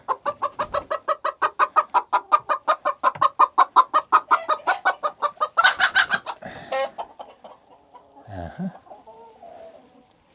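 A hen clucking rapidly and evenly, about six to seven clucks a second, breaking into a louder, harsher squawk about six seconds in before going quiet.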